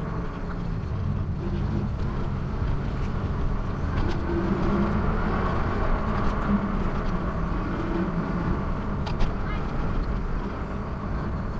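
Steady low rumble of wind and road noise while riding a bicycle, with a couple of faint clicks about nine seconds in.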